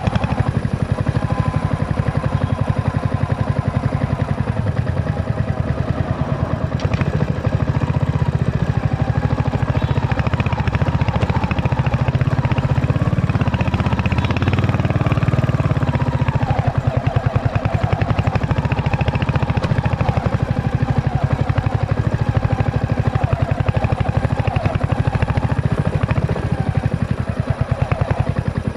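Royal Enfield Hunter 350's single-cylinder engine running, its exhaust giving a fast, even train of thumps whose pitch wavers a little through the middle.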